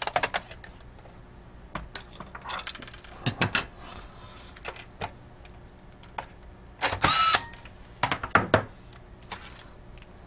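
Thin metal laptop heat shield and small plastic parts being handled and fitted into the laptop chassis: scattered light clicks and clatters, with a longer metallic rattle about seven seconds in.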